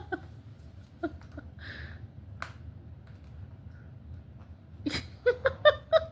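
Dogs mouthing and tugging at a sandal: scattered sharp clicks and a soft snuffle, then a quick run of short, pitched vocal sounds near the end.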